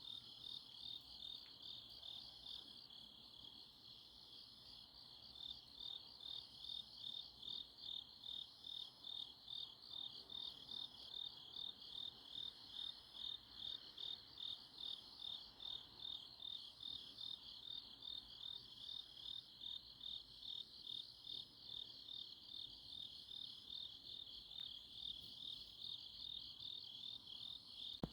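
Night chorus of crickets and other grass insects: a dense, high trill pulsing about twice a second, with a fainter, higher call repeating every second or so above it.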